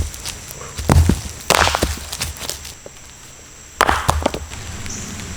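A few dull knocks and rustling crunches from handling sticks and gear while pitching a tent, loudest about a second in and again near four seconds, over a steady high insect buzz.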